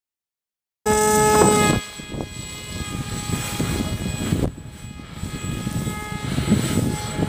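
Small electric RC-plane motor spinning a 6x4 propeller, a steady whine that starts abruptly about a second in and is loudest for about a second. It then runs on more faintly under heavy wind buffeting on the microphone.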